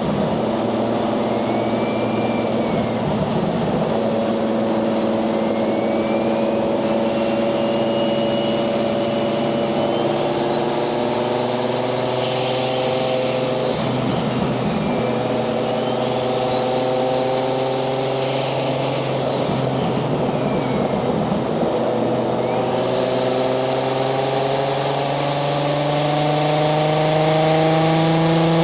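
Single-turbo 1JZ VVTi straight-six in a Nissan 240SX pulling under load, its engine note climbing gently with two brief dips as the throttle eases. A high turbo whistle rises and falls twice with boost, then climbs steadily and higher near the end as the car accelerates.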